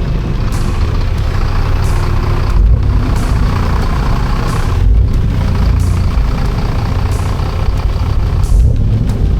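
A heavy recovery truck's engine running steadily.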